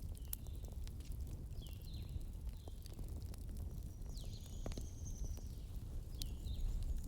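Wood fire burning, with a low steady rumble and scattered sharp crackles and pops. Short high whistling chirps come and go, with one longer whistle a little past the middle.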